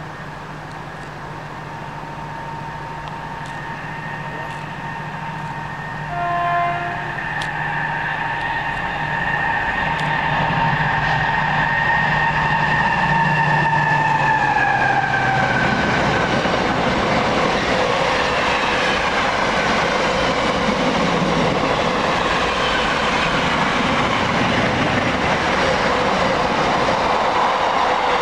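A freight train with container wagons approaching and passing through at speed. About six seconds in there is a short horn blast. A whine from the locomotive drops in pitch as it goes by, followed by the steady rumble and clatter of the wagons rolling past.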